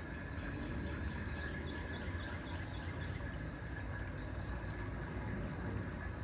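Outdoor ambience: a steady low rumble under a faint, even insect drone, with a few faint chirps near the middle.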